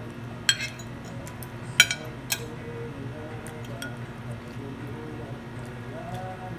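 Cutlery clinking against a plate a few times, the loudest clink just under two seconds in, over background music.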